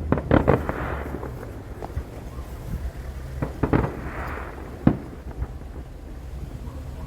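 Aerial fireworks bursting: a quick cluster of sharp bangs at the start, more around three and a half seconds in and one loud bang near five seconds, with a crackling shower after the bursts.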